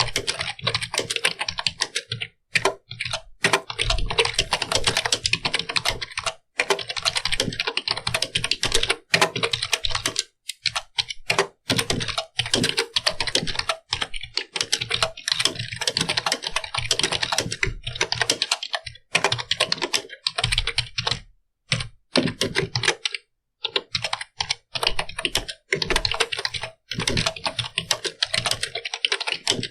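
Continuous fast typing on a computer keyboard: rapid runs of key clicks, broken every few seconds by brief pauses.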